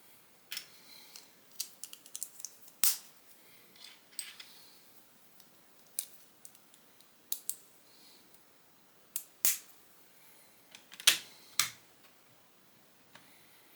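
Small plastic Lego pieces clicking and clattering as they are handled and snapped together, in irregular sharp clicks with a louder cluster near the end.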